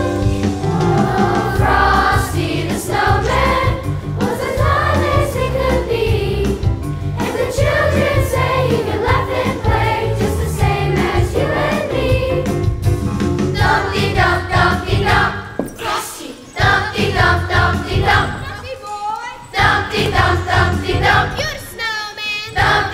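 School chorus singing with instrumental accompaniment, pausing briefly twice between phrases.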